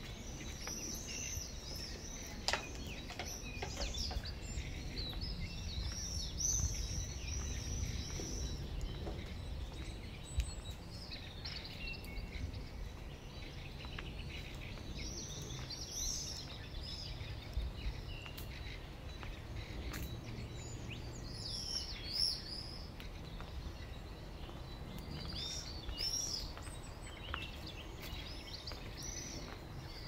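Small birds chirping in short bursts of quick calls, recurring several times, over a steady low rumble, with a few sharp clicks.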